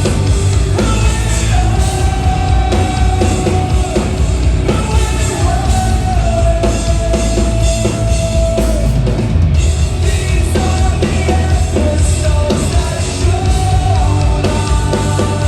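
Live post-hardcore rock band playing loud: distorted guitars and pounding drums, with a long held melodic line over the top.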